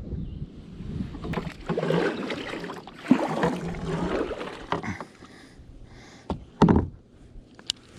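Water splashing and sloshing around a fishing kayak, with several sharp knocks and one loud, heavy thump about two-thirds of the way through.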